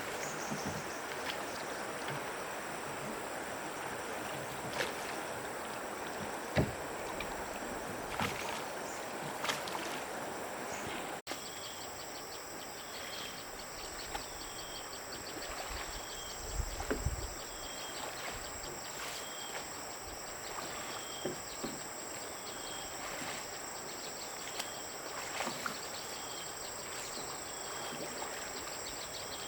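Outdoor ambience with a steady high insect drone. In the first part there is a noisy rustling haze with scattered knocks. After a sudden cut about a third of the way in, a short falling chirp repeats about once a second.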